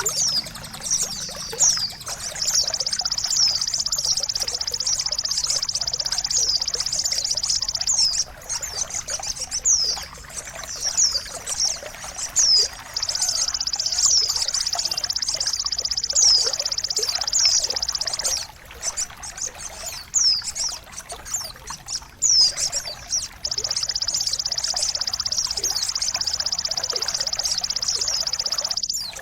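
Songbird song from a training (masteran) recording for caged birds: long, high, rapid trills of several seconds each, alternating with quick downward-sweeping whistled notes, over running or trickling water.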